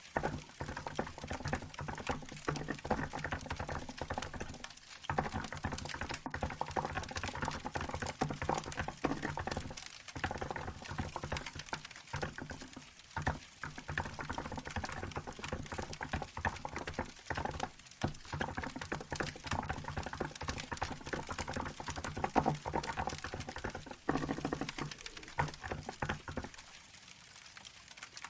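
Steady typing on a Hansung GK868B mechanical keyboard with milk-white keycaps, a fast run of clacking keystrokes broken by short pauses, and a quieter stretch near the end. A wood fire crackles faintly underneath.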